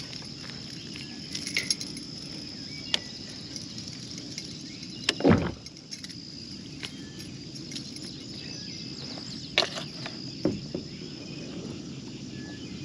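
Insects droning steadily in a high, thin tone, with scattered clicks and small handling knocks and one louder thump about five seconds in.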